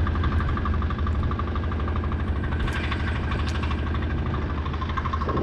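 Small fishing boat's engine running steadily: an even, low hum with a fine regular pulse.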